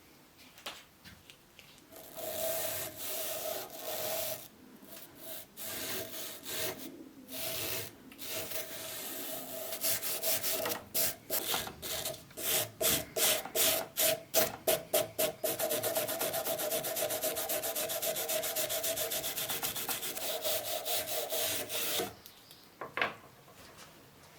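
Sanding: an abrasive scraping against the workpiece, in separate strokes at first, then quicker, even strokes, and from about the middle a fast, steady back-and-forth that stops shortly before the end.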